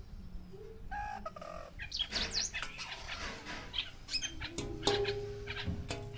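Birds chirping and calling: many quick sweeping chirps, then a long held call that starts about three quarters of the way through.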